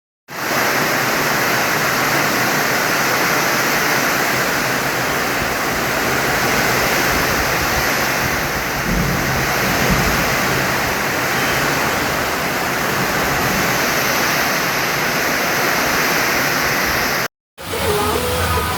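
Heavy rain pouring down, a dense, steady hiss that cuts off abruptly near the end.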